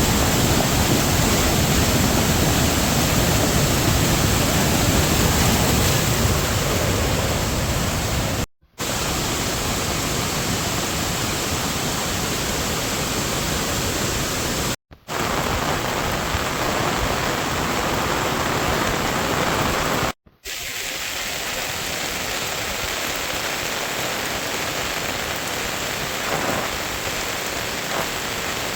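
Heavy rain falling as a steady hiss, in several clips cut together with brief drops to silence about 8 s, 15 s and 20 s in.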